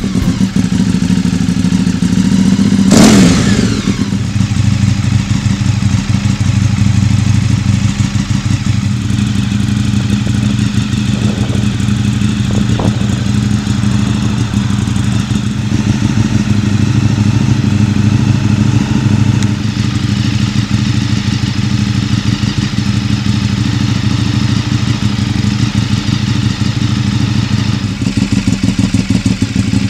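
Ducati 848's L-twin engine running steadily through its exhaust, a low, even pulsing note. About three seconds in there is one brief, loud burst that falls away quickly.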